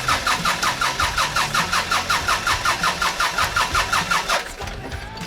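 Starter cranking the New Holland L180 skid-steer loader's diesel engine: a rapid, even chugging of about seven beats a second that stops after some four seconds without the engine catching.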